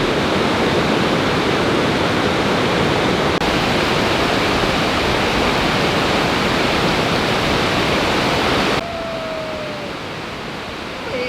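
Kegon Falls waterfall, a loud, steady rush of falling water. About nine seconds in it drops abruptly to a quieter, thinner rush.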